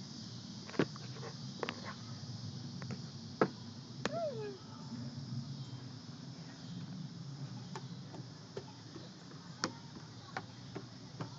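Outdoor ambience with a steady high insect chorus over a low, even rumble. Scattered sharp clicks run through it, and a brief falling tone comes about four seconds in.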